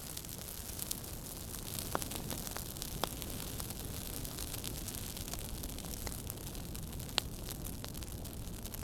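Fireplace fire crackling: a steady low rumble of flames under frequent small snaps, with a few sharper pops, the loudest about seven seconds in.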